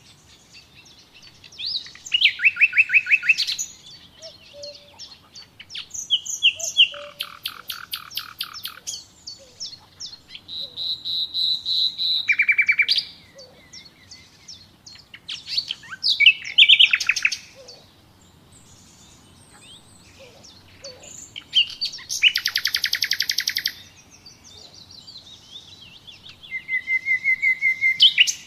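Wild songbirds singing: trilled phrases of rapid repeated notes come every four to five seconds, with softer chirps and calls in between.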